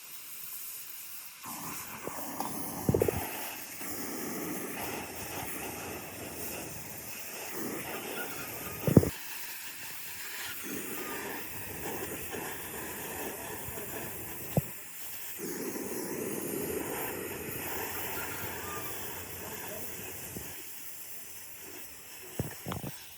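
A hiss that comes in stretches of several seconds with short breaks between them, and a few sharp knocks or clacks, the loudest about nine seconds in.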